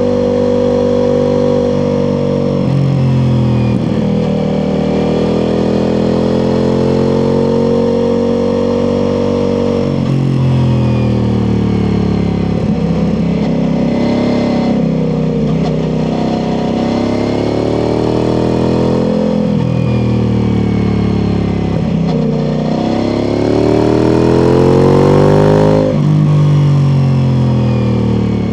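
Ducati Multistrada V4 Pikes Peak's V4 engine through an Akrapovič exhaust, ridden briskly. The revs climb and fall again and again as it accelerates, shifts and rolls off. The loudest, longest pull ends in a sudden drop about three seconds before the end.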